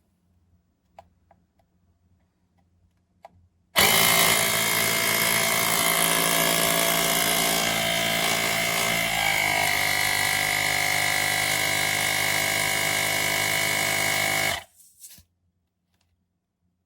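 Small cordless electric air compressor (Woowind AP2-P tyre pump) switching on and running with a steady, high-pitched motor-and-piston whine; its pitch drops slightly about halfway through, then it stops abruptly.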